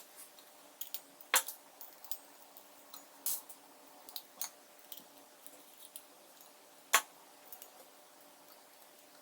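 Small metal clicks and taps of M4 screws and aluminium parts being handled and screwed in by hand, with two sharper knocks, one about a second and a half in and one about seven seconds in.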